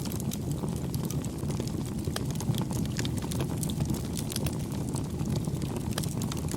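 Wood fire crackling: frequent small, sharp pops and snaps over a steady low rumble of the burning fire.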